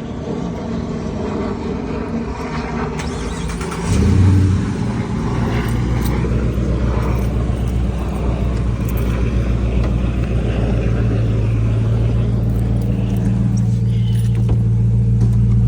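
Car engine running steadily at idle, with a brief rise in revs about four seconds in.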